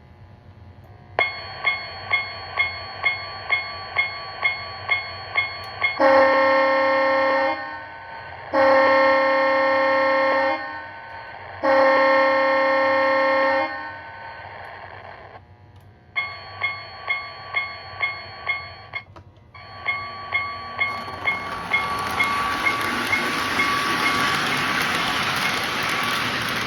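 Lionel TrueTone electronic bell and horn on a model Budd RDC train: the bell dings about twice a second, then the horn gives three long blasts, then the bell rings again. Near the end the model train's running noise of motor and wheels on the track rises under the bell.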